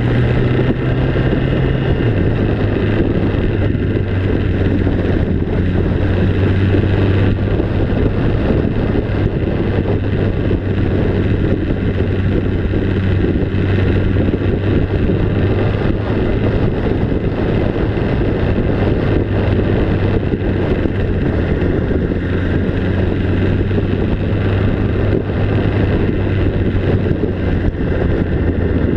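An engine running steadily at an even speed, a constant low hum under a wash of wind and travel noise.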